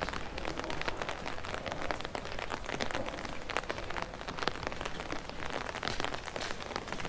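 Rain falling close to the microphone: a dense, irregular stream of sharp drop ticks over a steady hiss.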